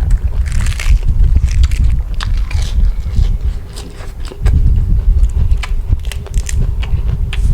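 A person chewing and crunching a mouthful of seafood and corn salad close to the microphone, with sharp crackles and clicks over a heavy low rumble. The chewing eases briefly about four seconds in, then picks up again.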